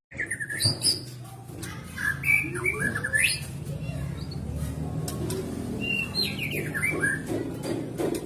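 White-rumped shama (murai batu) singing: three short phrases of quick, gliding whistles and chirps, the first just after a brief dropout at the start, over a low steady background.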